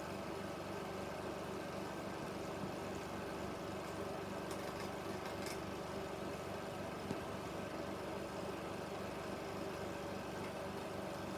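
16mm film projector running, a steady mechanical whirr of its motor and fan with a constant hum.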